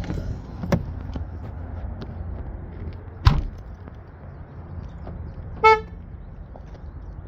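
A car door shuts with a sharp knock about three seconds in. A couple of seconds later the car's horn gives one short chirp, as a car does when it is locked with the key fob. A low steady rumble runs underneath.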